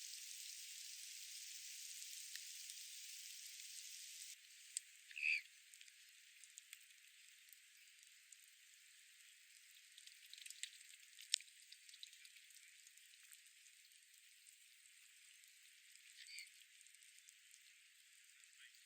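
Faint, thin outdoor ambience: a steady hiss that drops away abruptly about four seconds in, then scattered light clicks and two short bird chirps, one soon after the drop and one near the end.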